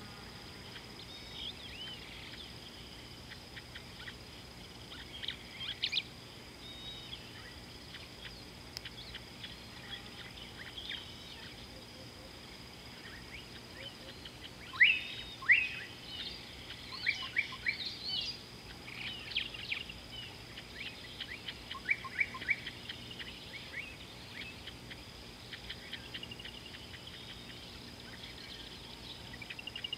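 Small birds chirping: scattered sharp calls that sweep quickly downward, thickest from about the middle on, over a steady high-pitched tone.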